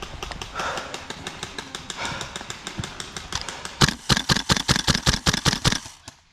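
Airsoft gun firing a rapid string of shots, about six or seven a second. Fainter shots come first; the string turns loud about four seconds in, runs for about two seconds, then stops.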